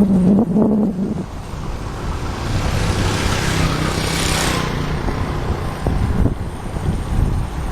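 Motorbike engine running on the road, with wind noise on the microphone; a broad hiss swells and fades about halfway through.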